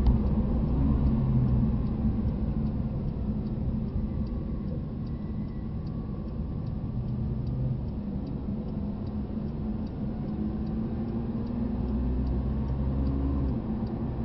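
Porsche 911 GT3's naturally aspirated flat-six heard from inside the cabin, running at low revs at a slow rolling pace, with a steady low rumble. Near the end it pulls harder as the car picks up speed again.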